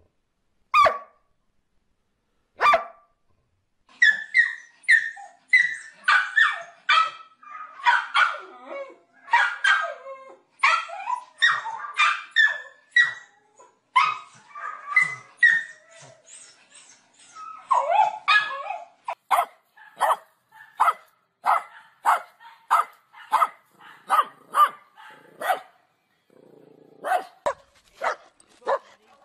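Dogs barking: two single barks, then from about four seconds in a dense stretch of overlapping barks at different pitches. Later comes a steady run of evenly spaced barks, a little over one a second, then a short lull and a few more barks near the end.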